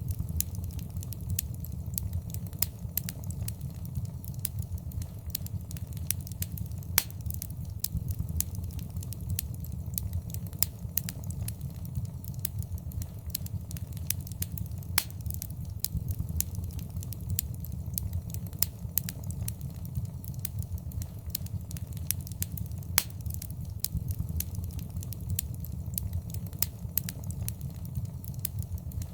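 Wood fire in a fireplace crackling steadily over a low rumble, with dense small pops and a few louder snaps every several seconds.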